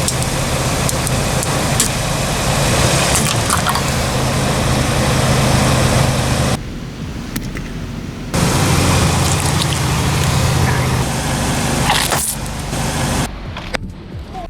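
Kia Sportage's engine running at idle, a steady low hum under heavy, even noise. There is a quieter stretch around the middle, and a few sharp clicks.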